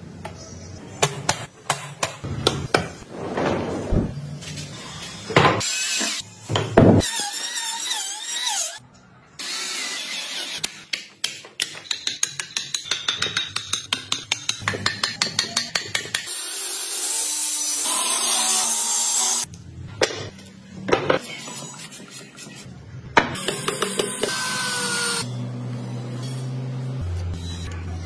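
Woodworking tools working wood, in short abruptly cut pieces: a power tool running, and in the middle a run of quick, even hand-tool strokes at about four a second.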